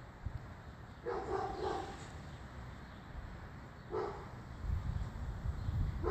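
A dog barking: a quick pair of barks about a second in and one short bark about four seconds in, with low rumbling noise after it.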